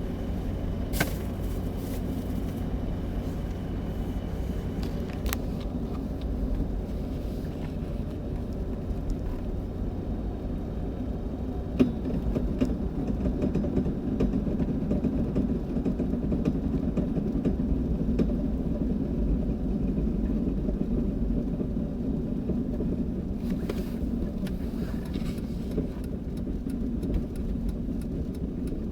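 2000 Jeep Grand Cherokee running with a steady low rumble, and a few brief sharp knocks on top, the loudest near the middle. The knocks are taken for the front-end clunk the owner is chasing, which appears only after 30+ miles of driving.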